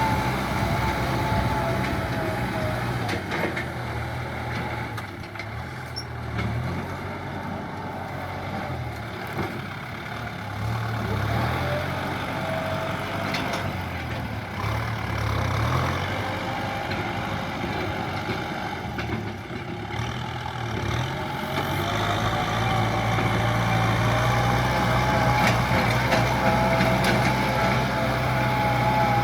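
John Deere farm tractor's diesel engine running steadily while ploughing, with a low engine drone and a higher wavering whine over it. It eases off a few seconds in and grows louder again about three quarters of the way through.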